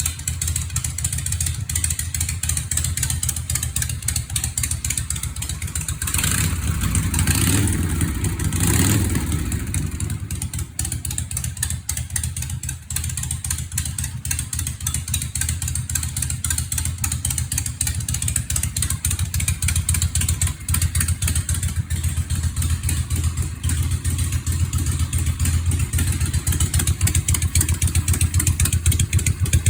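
Harley-Davidson Shovelhead V-twin running at idle through newly fitted mufflers, revved up twice briefly about seven and nine seconds in before settling back to a steady idle.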